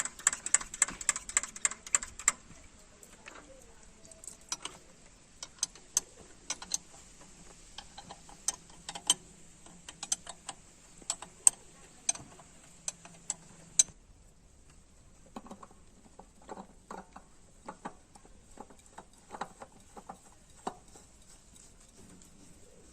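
Sharp clicks and taps of hand tools on metal: a fast run of clicks for about two seconds, then scattered single clicks and taps, softer in the last part.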